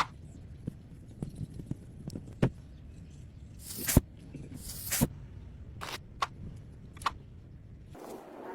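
Handling noises from working a soft hose onto a faucet fitting: scattered light clicks and knocks, with two brief scraping hisses about four and five seconds in, over a low background rumble.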